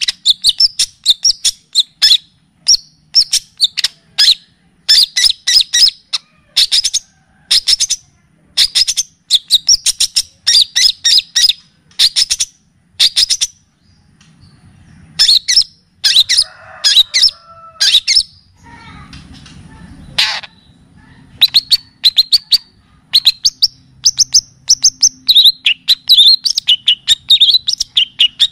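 Songbird singing in quick runs of sharp, high chirps, a phrase every second or two, as played in a masteran track of kapas tembak and cililin song. There is a short break with a brief rustle near the middle, and a faint low hum sets in about two-thirds of the way through.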